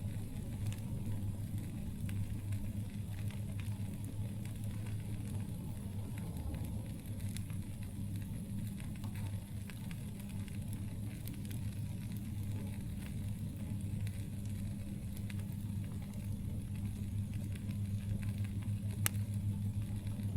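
Campfire burning with sparse crackles and one sharper pop near the end, over a steady low rumble.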